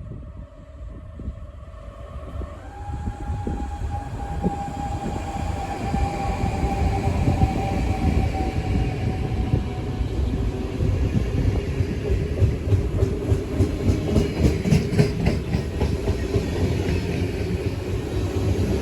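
NS DDZ double-deck electric train pulling out and picking up speed, the running noise growing louder over the first few seconds, with a steady whine and the wheels clattering over rail joints.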